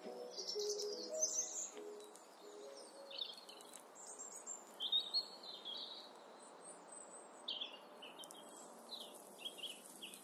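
Songbirds chirping and twittering in short, repeated calls, with soft lo-fi music notes fading out in the first few seconds.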